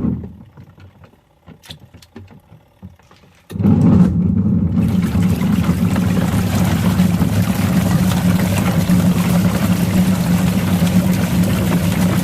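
Washing machine pausing, with only a few light clicks, then its drum motor starting again about three and a half seconds in and running with a steady low hum, joined a second later by an even wash of water noise.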